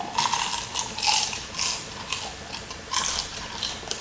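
Crunching and chewing of crispy fried chicken close to the microphone: irregular crackly crunches, loudest about a second in.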